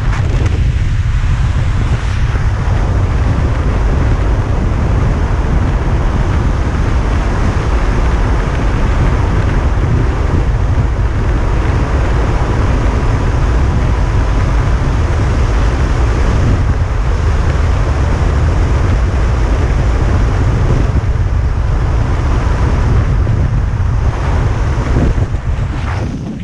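Loud, steady wind buffeting the microphone, over the wash of the open sea.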